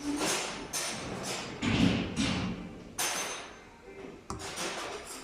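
Irregular knocks and scraping noises, about five in a row, from hand work on metal parts.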